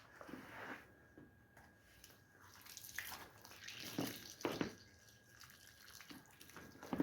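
Water dripping and splashing during rug washing, with a few sharp splashes about three, four and four and a half seconds in.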